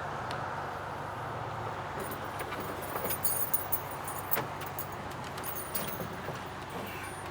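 Steady road noise inside a moving pickup truck's cab, with light clicking and rattling, like keys jangling, from about two seconds in.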